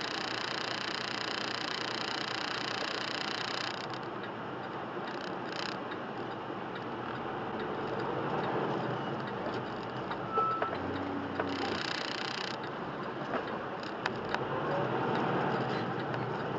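Vehicle driving noise picked up by a dashcam, with a few sharp clicks. The sound changes abruptly about four seconds in, as at a cut between clips.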